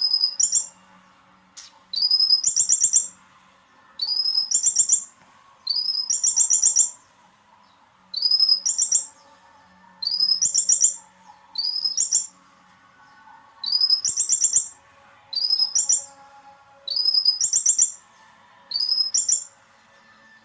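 Olive-backed sunbird (kolibri ninja) in full song: a high, rapid trilled phrase that rises in pitch, repeated about every two seconds.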